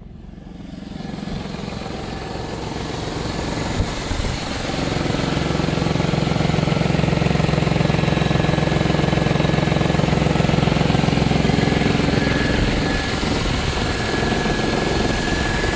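Audi A6 C5 2.7 biturbo V6 engine running steadily, growing louder over the first few seconds, with a short sharp knock about four seconds in. Through it runs a rattle that the owner cannot identify.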